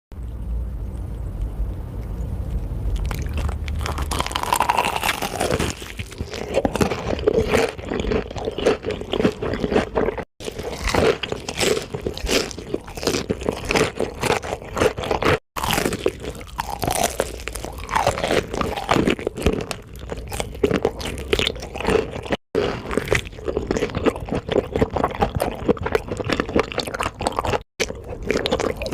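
Close-miked biting and chewing of crispy fried chicken: dense, rapid crackling crunches of the fried coating. The crunching starts a few seconds in after a low rumble and is broken by several sudden cuts.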